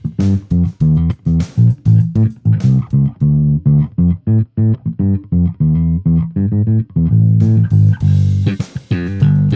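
Electric bass played through an Ampeg Rocket Bass RB-110 combo amp: a steady run of short, punchy plucked notes. In the middle stretch the tone turns darker, with little top end, then it turns bright and cutting again near the end.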